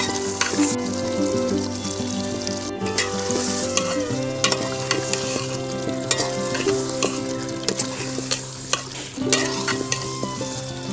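Chicken frying and sizzling in a pan while being stirred, with frequent sharp taps and scrapes of the spatula against the pan. Background music with held notes plays underneath.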